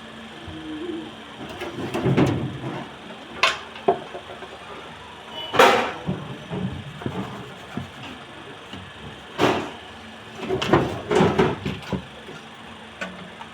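Irregular knocks, clatter and short scraping bursts, like parts and tools being handled, over a faint steady hum.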